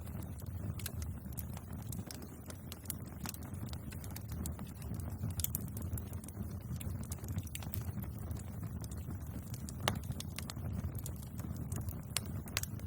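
Wood fire crackling: irregular sharp pops and snaps, a few louder ones scattered through, over a steady low rumble of burning flames.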